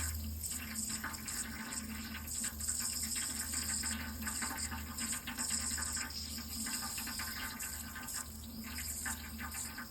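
Water running steadily from a tap into a sink, with a low hum underneath.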